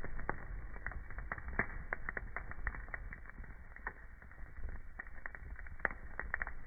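Wood fire crackling in a fireplace: irregular sharp pops and snaps, several a second, over a low rumble of the burning.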